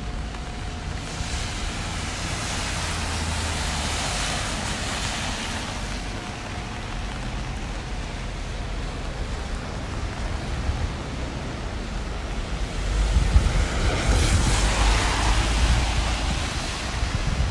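Rainy city street ambience: an even hiss of rain and wet street noise that swells twice, over the first few seconds and again about fourteen seconds in, with low rumbling near the end.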